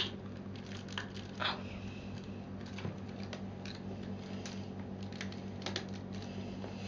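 Small plastic clicks and rustling from handling Lego Technic parts while a Power Functions plug is pressed onto its socket, over a steady low hum.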